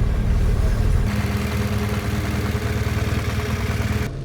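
Motorcycle engine running steadily at low speed. A hiss steps up about a second in, and the sound changes abruptly near the end.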